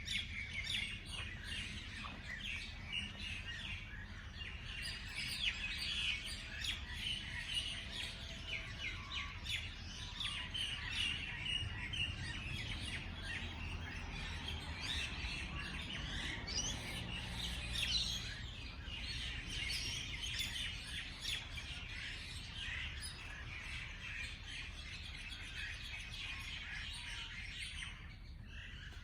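A chorus of many small birds chirping, with dense overlapping high chirps throughout, over a steady low background rumble.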